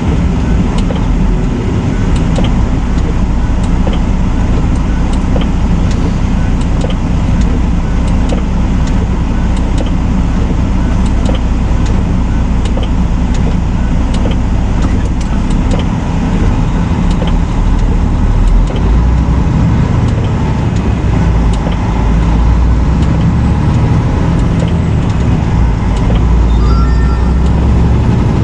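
Semi truck on the road: a steady low engine and road rumble, with scattered light ticks throughout.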